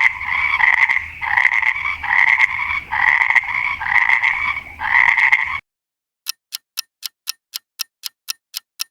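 Frog croaking, a pulsed call repeated about every half second for about five and a half seconds, then stopping. Even clock-like ticking follows, about three ticks a second.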